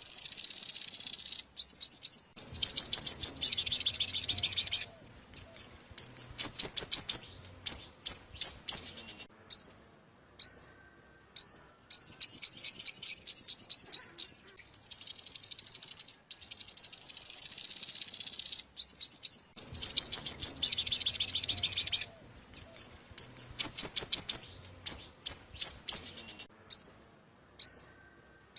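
Sunbird song, the bird keepers' "five-coloured sunbird", played as a lure call for glue-trapping. It comes as fast, very high trills of sharp repeated notes in runs of a few seconds, broken by single short chirps and brief pauses.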